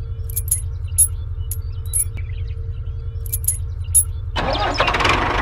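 A small engine running with a low, even pulse, with several light metallic clinks over it. About four and a half seconds in, a louder hissing noise starts and carries on.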